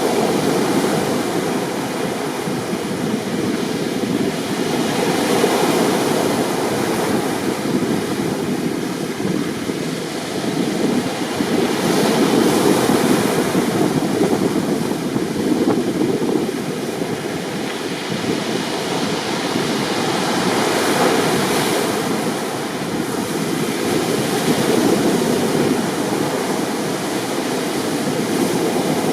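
Rough sea surf: heavy waves breaking and washing in a continuous roar that surges and eases every several seconds.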